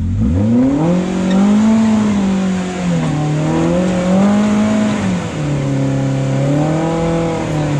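Side-by-side UTV engine revving up sharply from idle and held at high revs, the pitch wavering up and down for several seconds before dropping back toward idle near the end, as the machine strains to climb a rock ledge it is hung up on.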